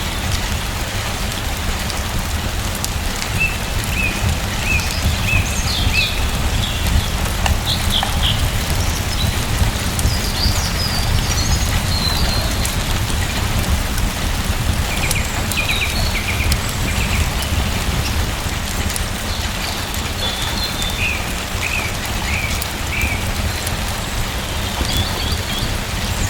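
Steady rain falling with a low rumble, while small birds call in short runs of quick chirps every few seconds. A few faint sharp clicks come through now and then.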